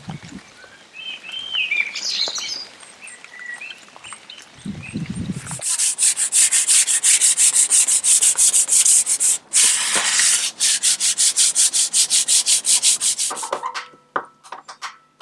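Birds singing for the first few seconds, then rapid back-and-forth rubbing strokes, about five a second, for around eight seconds. The strokes are loud and scratchy, as in hand sanding, and a few lighter clicks follow near the end.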